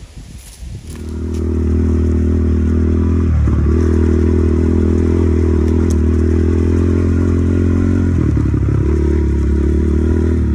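Small kids' Yamaha PW motorbike engine running steadily. It starts about a second in and holds an even pitch, wavering briefly twice.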